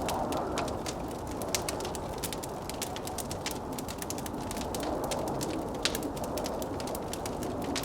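Wood fire crackling with many small irregular pops, over the steady whoosh of blizzard wind.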